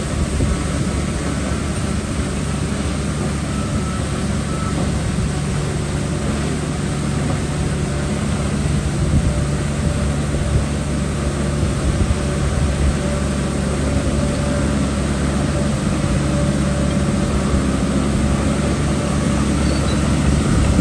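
Heavy diesel engine of earthmoving equipment running steadily under load, a deep, even engine drone.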